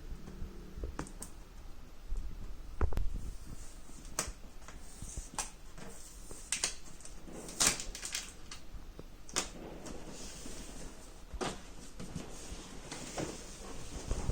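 Handling noises while unboxing a robot vacuum: scattered knocks and clicks of parts and packaging being moved, with a few brief rustles.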